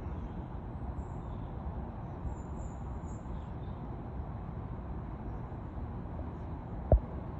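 Steady low background rumble with a few faint, very high bird chirps in the first half, and one sharp knock near the end.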